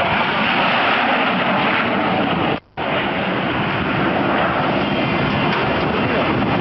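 Aircraft engine noise, a loud steady rushing sound, broken by a sudden silent gap of about a quarter second some two and a half seconds in.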